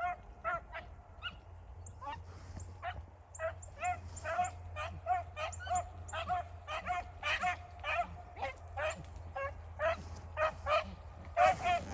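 Several beagles baying in short, repeated yelps, about two a second, some of them overlapping: a pack of rabbit hounds giving mouth as they run a scent trail.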